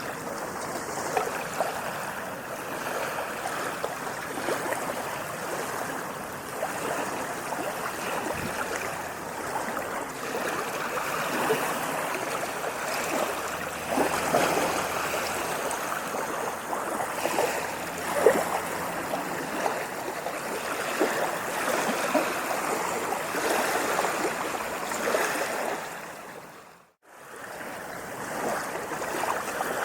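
Small waves lapping and splashing against a shore: a continuous watery wash with many small splashes. About 27 seconds in it fades briefly to silence and comes straight back.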